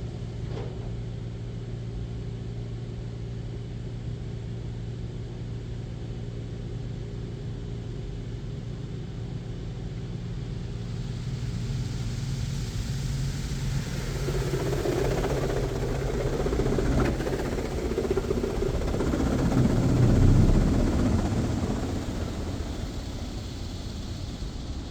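Touch-free automatic car wash (Mark VII Aqua Jet GTO-300) heard from inside the car: a steady low hum, then high-pressure water jets hissing and drumming on the car as the spray passes over, building from about halfway, loudest near the end, then easing.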